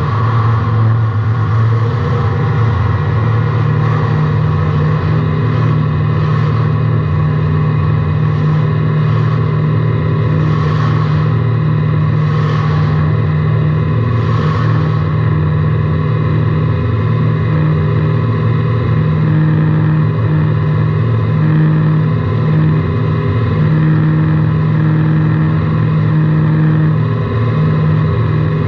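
Race car engine heard from inside the car, running hard at fairly steady revs. A few short hissy surges come through in the middle stretch.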